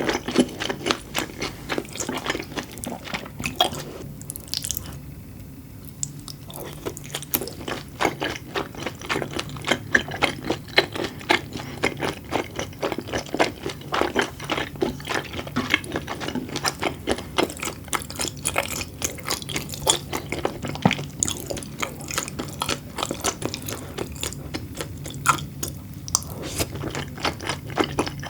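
Close-miked wet chewing: rapid, irregular sticky clicks and small pops of food in the mouth, with a quieter lull about four seconds in.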